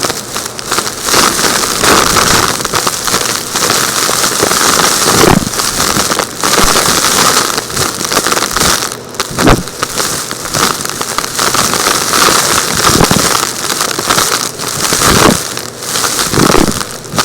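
Vacuum cleaner running and sucking up gritty, rocky debris, with a steady rush of air and loud, irregular crackling and rattling as the particles are drawn in.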